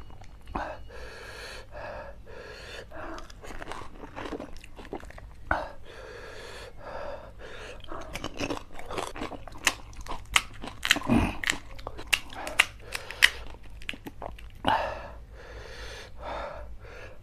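Pani puri (golgappa) being bitten and chewed close to the microphone: crisp hollow puri shells, filled with spicy pani, cracking and crunching in the mouth as wet chewing, with the crunches coming thickest in the middle.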